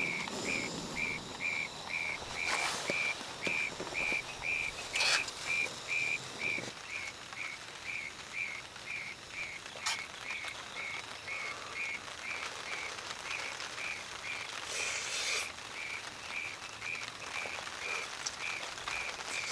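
An animal calling with short, high, even notes about twice a second, keeping a steady rhythm, over a light hiss with a few sharp taps now and then.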